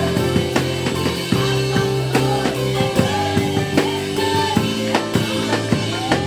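Gospel band playing an instrumental passage: a drum kit keeps a steady beat over bass notes and held chords.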